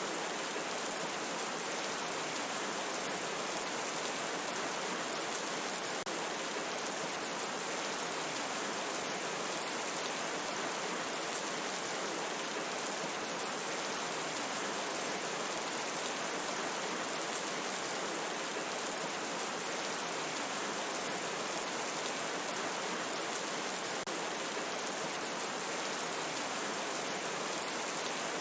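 Steady rain falling in a forest, an even unbroken hiss of many drops with no thunder or single drips standing out.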